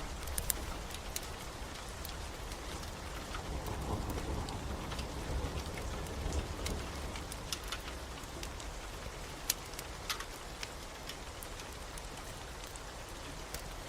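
Steady rain with scattered sharp pops and crackles from a burning log fire, and a low rumble of distant thunder swelling and fading between about four and seven seconds in.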